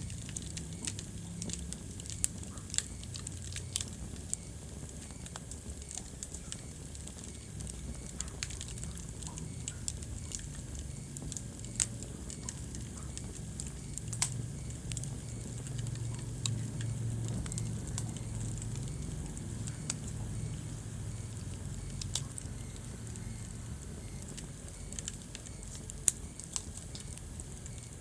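Wood fire burning in a fireplace: a low steady rumble of flames with scattered sharp pops and crackles, a few louder pops standing out.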